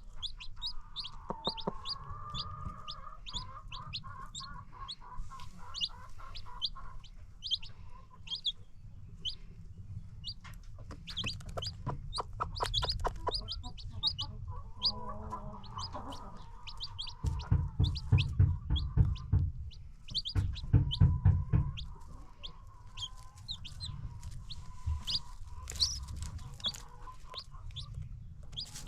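Baby chicks peeping in quick high notes, with a hen clucking low and steadily among them. Loud low thuds and rustling close by come in bouts in the second half.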